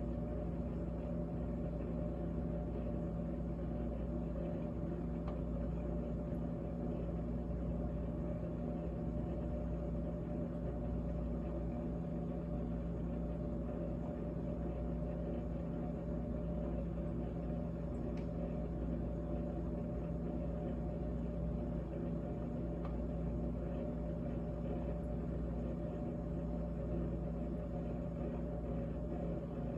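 GE GTH18XCTZRBB refrigerator running: a steady hum made of a low drone and several fixed tones, unchanging throughout.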